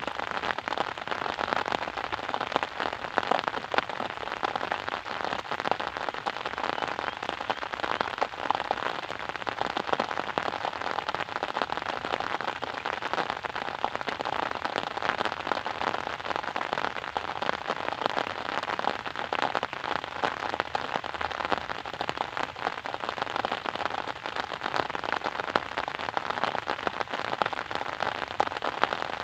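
Steady rain falling, a dense patter of drops on a surface.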